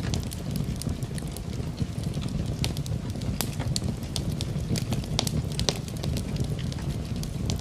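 Fireplace wood fire crackling, with frequent irregular sharp pops over a steady low rushing noise, mixed with rain.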